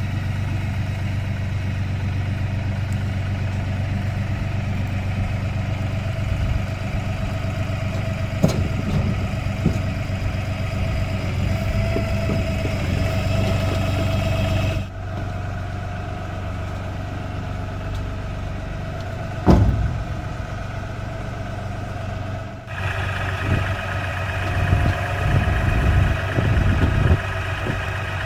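Compact tractor's diesel engine idling steadily, with a few sharp clanks. The engine sound changes abruptly about halfway through and again near the end.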